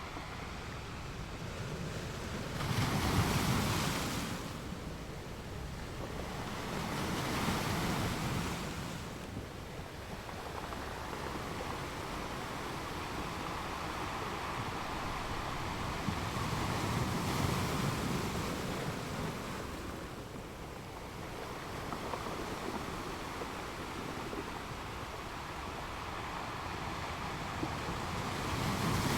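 Ocean waves breaking and washing up a beach, the surf swelling louder every few seconds, with a light wind.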